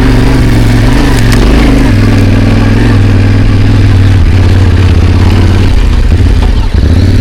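Motorcycle engine running steadily while the bike is ridden over a rough, rocky mountain track. The engine note wavers slightly in the second half.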